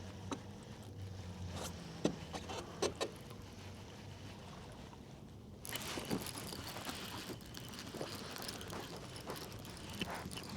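Low steady hum of the kayak's electric motor that cuts off about two seconds in, followed by a few light clicks and, from about halfway, splashy water and wind noise against the kayak.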